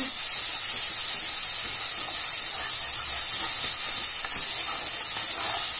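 Ground masala paste sizzling steadily in hot oil in a pressure cooker, a steel spoon stirring it and scraping the pan now and then.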